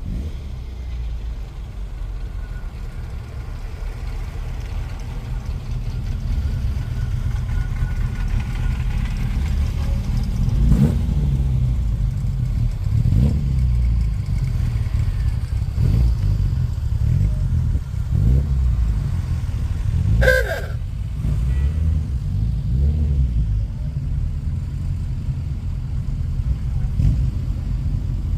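A car engine running with a low rumble and being revved several times, the pitch rising and falling with each blip. A brief sharp sound stands out about twenty seconds in.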